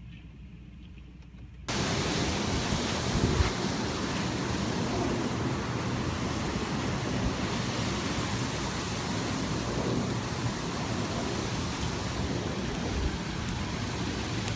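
Strong gusty wind, a steady rushing noise that starts suddenly about two seconds in and then holds with small swells.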